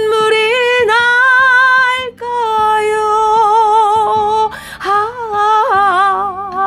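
Woman singing a slow Korean ballad, with long held notes and vibrato over soft accompaniment.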